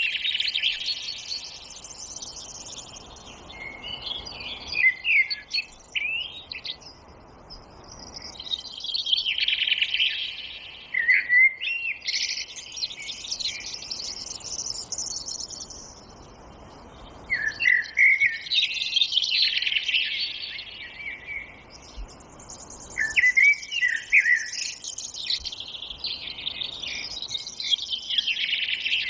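Forest songbirds singing: bursts of quick, high chirps and trills come every few seconds, over a soft steady hiss.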